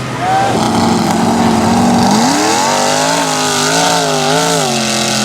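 Off-road mud truck's engine revving: the pitch rises about two seconds in, swings up and down a few times, then drops back to a steady run near the end, over a steady hiss.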